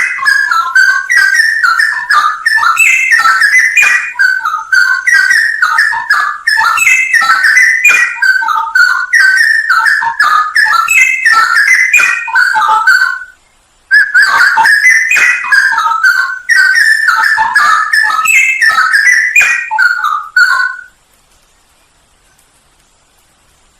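Straw-headed bulbul (cucak rowo) singing: a loud, continuous stream of rich whistled, warbling phrases. It breaks off for a moment about 13 seconds in, resumes, and stops about 21 seconds in.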